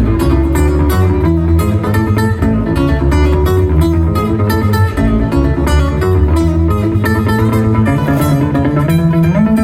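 Live acoustic duo music: an instrumental passage of plucked guitar over steady low notes, with no singing.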